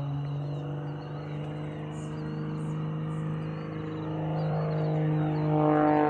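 Propeller aircraft engine drone, a steady pitched hum that grows louder over the last couple of seconds as the plane comes closer.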